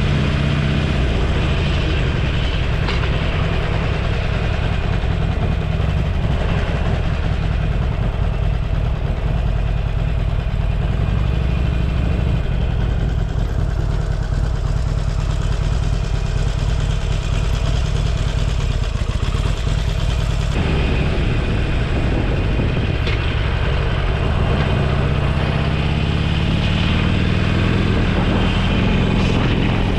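Motorcycle engine running steadily under way, with wind rush over the microphone. In the last few seconds the engine note climbs slowly as the bike gathers speed.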